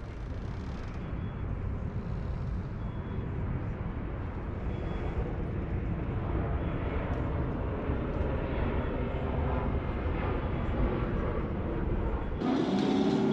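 Steady low rumble of a sailboat's diesel engine as the boat motors out under power.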